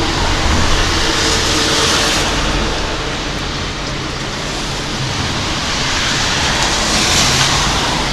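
Strong typhoon wind, about 15 to 20 metres a second, rushing and buffeting the microphone with a heavy low rumble, easing a little in the middle and swelling again toward the end, along with rain.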